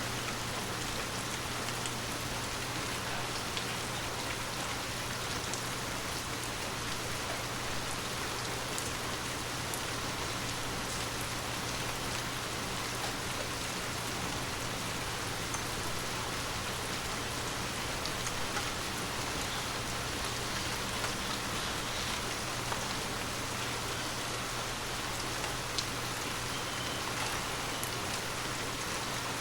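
Steady heavy rainfall, an even hiss with scattered sharper drop ticks.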